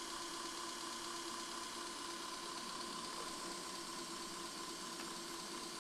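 Electric motor of a motorcycle conversion spinning slowly with no load under a twist-grip electronic throttle: a faint, steady hum with two constant tones over a hiss, holding an even speed.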